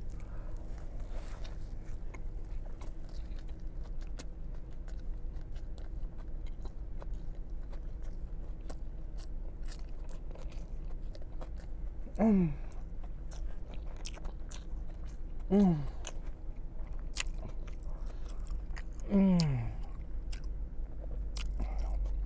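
Close-miked chewing and biting of a Subway sub sandwich, with wet mouth clicks and the crunch of lettuce and bread. Three falling "mmm" hums of enjoyment come in the second half.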